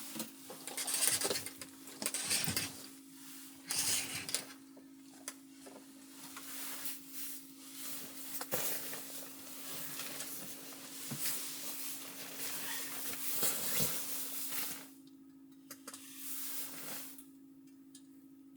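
Handling sounds: rustling and scraping with small clicks and knocks, coming and going in stretches, over a steady low hum that cuts off at the end.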